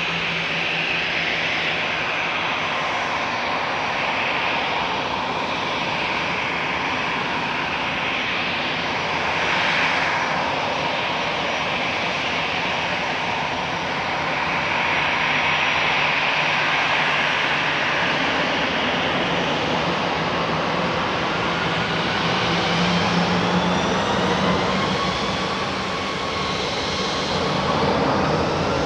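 Airliner engines running: a steady, loud rushing noise with whining tones, which climb in pitch over the last several seconds.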